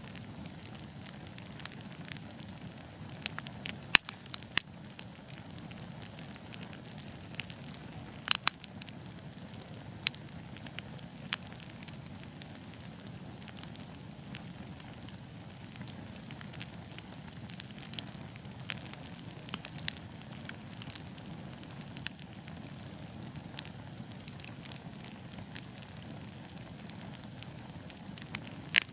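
Wood fire in a fireplace crackling and popping over a soft, steady low rush of flame. The sharp pops come thickest in the first dozen seconds, a few of them loud, then thin out to occasional single snaps, with another loud pop near the end.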